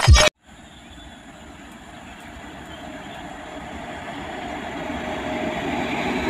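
A last beat of electronic intro music cuts off at the start, then an Indian Railways WAG-7 electric locomotive hauling BOXN freight wagons approaches: a steady rumble of wheels on rail growing steadily louder as the train nears.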